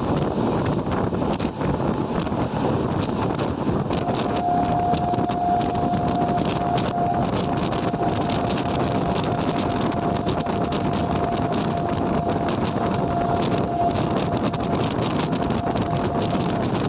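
Train running past on the line, a steady rumble dotted with rapid clicks of wheels over the track, with wind buffeting the microphone. A thin steady tone sounds from about four seconds in until near the end.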